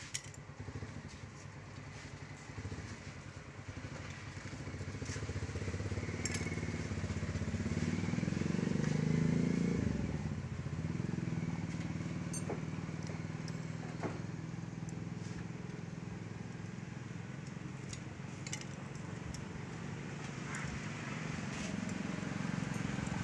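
A motorcycle engine running, growing louder for several seconds and dropping off sharply about ten seconds in, then running on steadily. A few sharp metal clinks of clutch plates and tools being handled.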